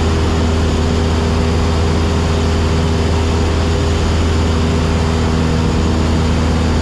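Cessna 172SP's four-cylinder Lycoming IO-360 engine and propeller running steadily in cruise flight, heard inside the cabin: a constant low drone with an even hiss of airflow over it.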